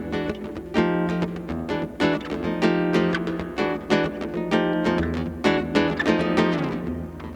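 Acoustic guitar strummed in a steady rhythm, playing a song's intro.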